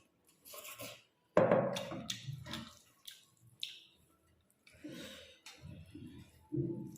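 Wet eating sounds from a meal of rice with chicken gravy: irregular squishy chewing and smacking, loudest about a second and a half in.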